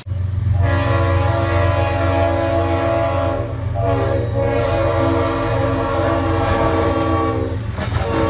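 CSX freight locomotive air horn sounding: a long blast, a brief break about three and a half seconds in, a second long blast, and a third starting just before the end, all over the steady low rumble of the passing diesel locomotive.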